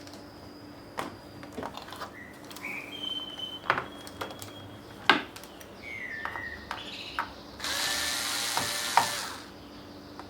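Small electric screwdriver whirring in short runs while undoing the screws of a laptop case, with sharp clicks and taps of the tool and screws. The longest and loudest run of the screwdriver comes near the end.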